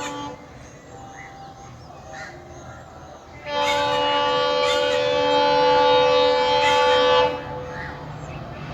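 Train horn sounding one long steady blast of nearly four seconds, starting about three and a half seconds in and cutting off sharply, over a low steady rumble of the train.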